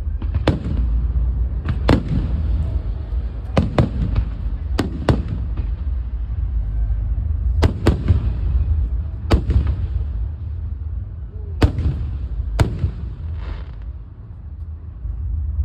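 Aerial fireworks shells bursting in the sky: about a dozen sharp bangs at irregular intervals, some in quick pairs, over a steady low rumble.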